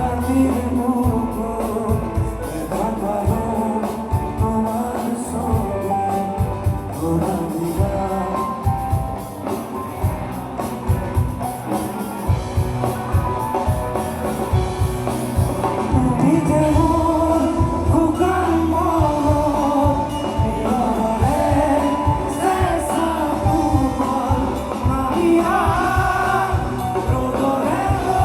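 Live band music with singing over a steady drum beat; the voice carries the melody more strongly in the second half.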